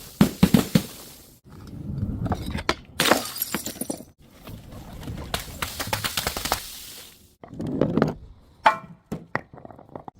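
Glass bottles smashing and shattering in several separate crashes, with fragments clinking, and a sharp glassy hit with a brief ring near the end.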